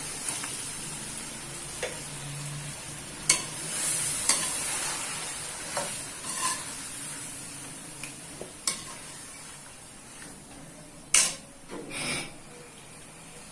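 Marinated chicken frying in hot ghee in a kadhai with a steady sizzle, while a spoon stirs it and scrapes and knocks against the pan a few times. The loudest knocks come about three seconds in and again near the end.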